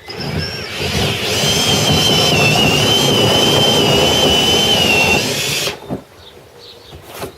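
Power drill with a Bosch hole saw cutting through a kayak hull, running for about five seconds with a high, slightly wavering whine, then stopping abruptly.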